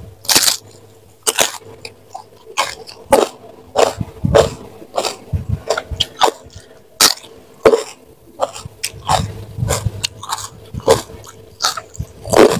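A person eating with her hands and chewing close to the microphone: irregular crunches and wet, open-mouth smacks, roughly one or two a second.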